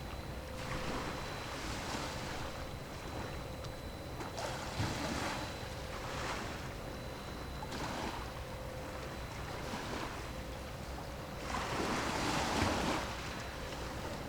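Small waves washing against the shore of the strait, swelling and fading every second or two, the largest about twelve seconds in, over a steady low rumble of wind on the microphone.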